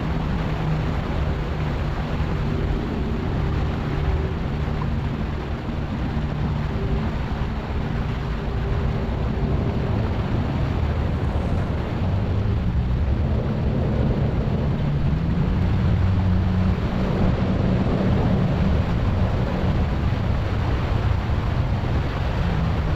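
Boat engine running steadily under way, a low hum mixed with rushing water and wind on the microphone.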